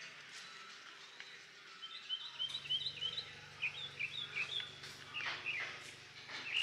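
Birds chirping in quick short calls in quiet outdoor ambience, starting about two seconds in, with a faint steady low hum coming in shortly after.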